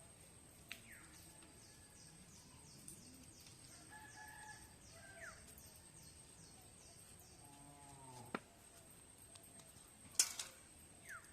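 A rooster crowing faintly, with a rapid high ticking pattern for the first several seconds and a few sharp knocks, the loudest about ten seconds in.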